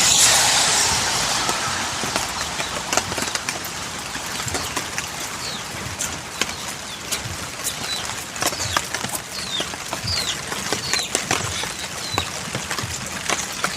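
Steady rain hiss with scattered irregular taps, and a small bird giving short falling chirps several times.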